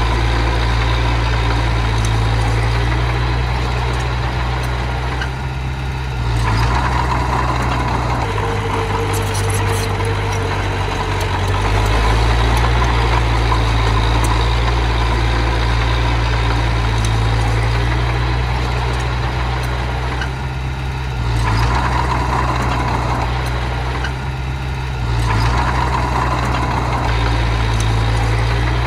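Diesel engine of a small earthmoving machine running steadily. It briefly drops in level three times and then picks back up.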